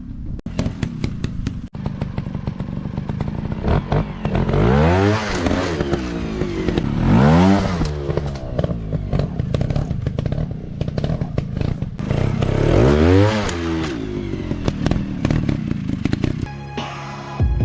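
Dirt bike engines running, rising and falling in pitch three times as they are revved or ride past, over near-constant clattering and knocking. Steady musical tones come in about a second before the end.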